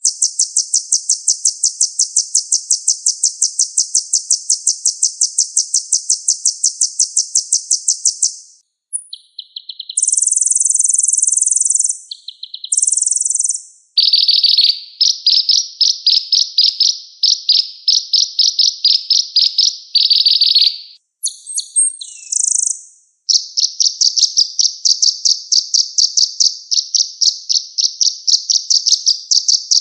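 Sunbird sold as 'kolibri ninja' singing a loud, high-pitched song of long, fast trills of repeated chirps. The trills come in several phrases broken by short pauses: a long one first, then shorter bursts, then two more long trills.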